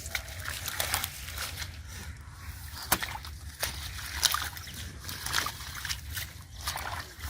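River water sloshing and splashing unevenly as someone works through it by hand to catch fish, with a sharp knock about three seconds in.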